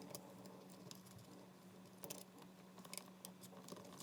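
Near silence: a faint steady hum with a few small, sharp clicks, a little past the start, about two seconds in and near three seconds in.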